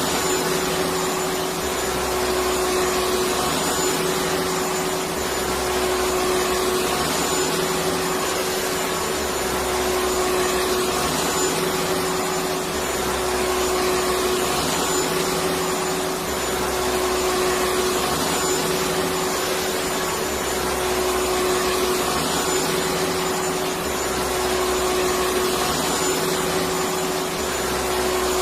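Electric vacuum cleaner running steadily: a continuous whooshing hiss over a steady motor hum, with a faint low throb that comes and goes about every two and a half seconds.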